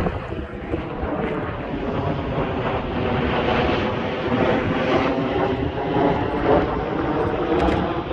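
Fixed-wing aircraft passing overhead: a steady engine rumble with a faint hum of engine tones.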